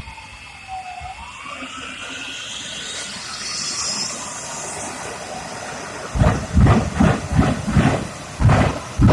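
Jet truck's turbine whining over a loud hiss, its pitch dipping and then rising again. About six seconds in it breaks into a rapid string of loud afterburner bursts, about two to three a second.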